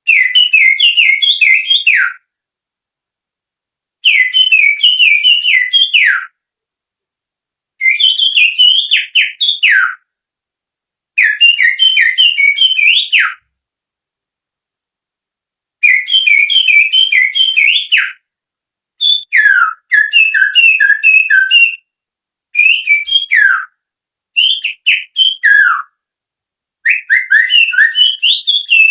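Finger whistling, made with the little fingers, imitating the song of a sirtu songbird. The whistles come in phrases of about two seconds, each a run of quick chirping notes that often ends in a falling note, with short pauses between phrases; the phrases come closer together near the end.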